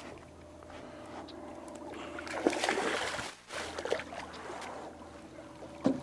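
A hooked bass splashing and thrashing at the water's surface as it is reeled to the boat, loudest about two and a half seconds in, with more splashes near the end. A steady low hum runs underneath.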